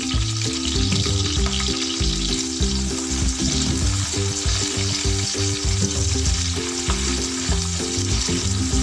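Yellow chives sizzling steadily in hot oil in a wok, stirred and pushed around with a spatula.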